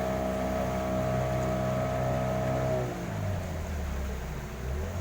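Small boat's motor running steadily. About three seconds in its pitch drops as it throttles down, then climbs again near the end as it picks up speed.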